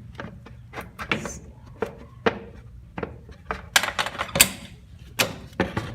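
A cover on a Kawasaki Mule 2510 is worked into a tight spot, with irregular knocks, thunks and scrapes as it is manoeuvred. A cluster of louder knocks comes about four seconds in.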